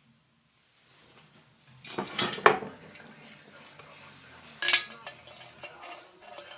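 Metal pieces clinking and clanking: a cluster of sharp strikes about two seconds in, another near five seconds, with light rattling between.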